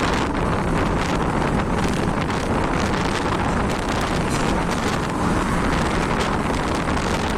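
Steady rush of wind over the microphone of a moving motorcycle, gusting in quick streaks, with engine and road noise underneath.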